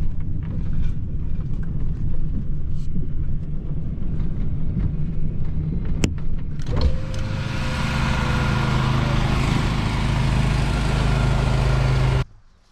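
A vehicle running as it pulls up, a steady low rumble. About six seconds in there is a sharp click, and then a louder, brighter steady machine noise with a hum takes over, which cuts off just before the end.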